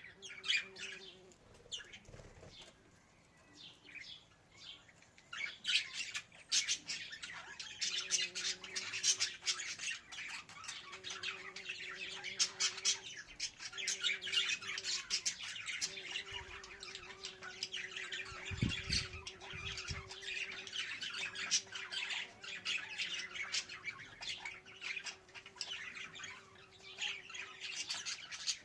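Budgerigar chatter: fast chirping and warbling, sparse for the first few seconds and then dense and continuous. A steady low hum comes and goes underneath, and a few dull knocks sound a little past the middle.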